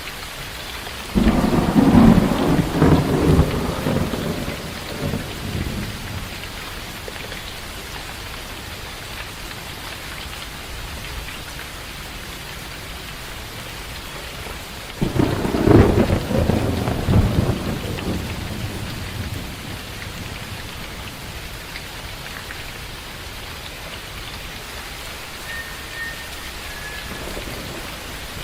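Steady rain falling, with two rolls of thunder: one breaking about a second in and rumbling on for several seconds, and a second about fifteen seconds in.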